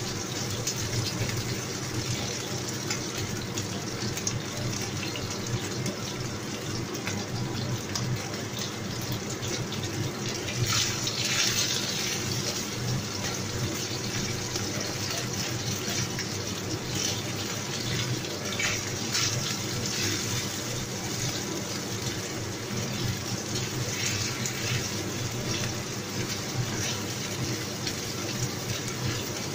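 Diced chicken sizzling and crackling in hot oil in a wok, turned over and over with a wooden spatula, with a steady low hum underneath. The sizzle swells for a moment about eleven seconds in.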